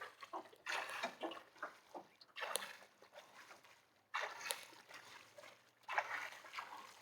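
Water splashing in a steady rhythm, one splash about every second and a half to two seconds, from a swimmer's arm strokes as he tows a small boat across a lake.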